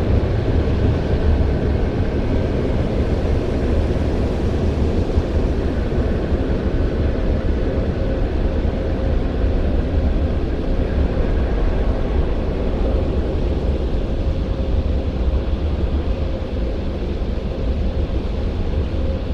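Christ Auto-Jet C115 rollover car wash running, heard from inside the car: a steady, loud roar with a deep rumble and a faint steady hum.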